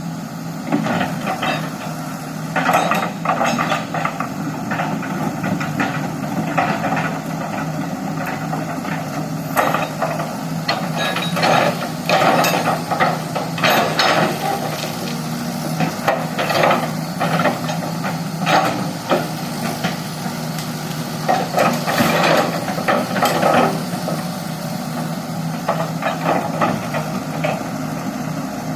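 Excavator's diesel engine running steadily, with irregular knocks and clanks from the machine at work, coming in clusters.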